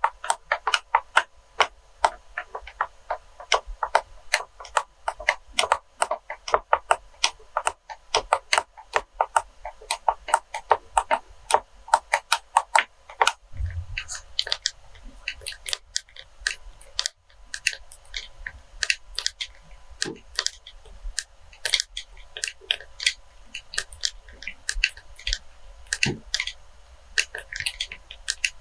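Rapid light tapping on objects, many quick sharp clicks a second. About halfway through there is a low thump, and the tapping turns sparser and more uneven.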